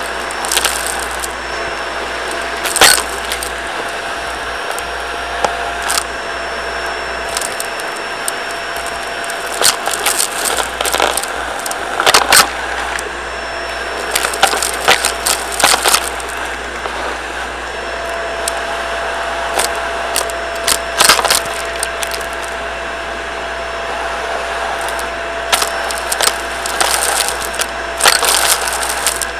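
Shark vacuum cleaner running with a steady whine, with many sharp clicks and rattles scattered through it as debris is sucked up.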